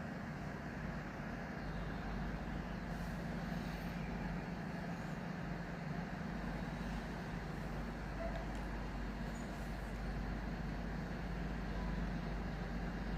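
A diesel train engine running with a steady low drone and no change in pace.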